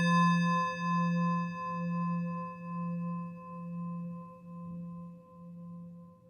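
A struck singing bowl ringing out and slowly fading. Its low tone pulses in a slow wobble about once a second, over fainter higher ringing tones that die away first.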